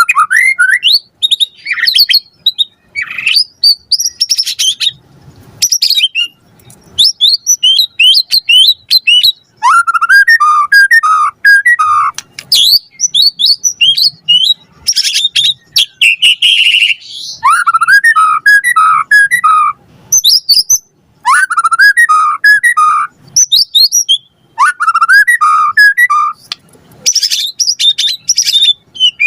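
White-rumped shama (murai batu) singing a long, varied, full-isian song packed with mimicked phrases. Quick rising and falling whistles and high chirps alternate with a repeated run of lower notes that comes back about four times, with only brief pauses between phrases.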